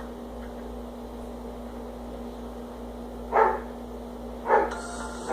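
A dog barking twice, about a second apart, over a steady low hum.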